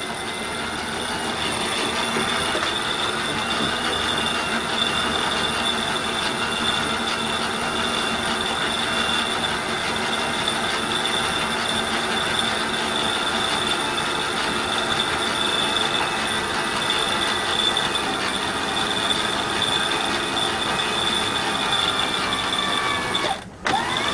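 Electric sheet winch running under load, hauling the main halyard to hoist the mainsail: a steady mechanical whine and squeal that briefly cuts out near the end.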